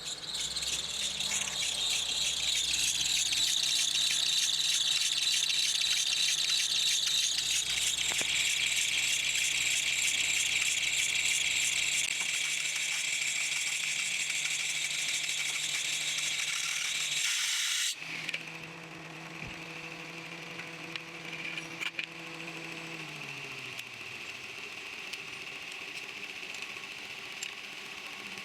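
Car engine's serpentine accessory belt squealing and chirping loudly and continuously at idle, the sound of a bad belt. About 18 seconds in it cuts off suddenly, leaving only a quieter engine hum whose tone slides lower a few seconds later.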